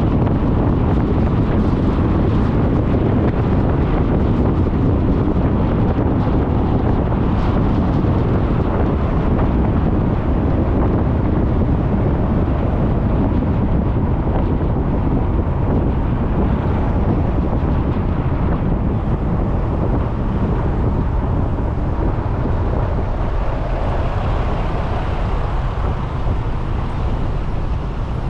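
Wind buffeting a helmet- or bike-mounted action camera's microphone while riding a Suzuki Burgman 400 scooter, mixed with the scooter's engine and road noise. The rush is steady and eases slightly near the end.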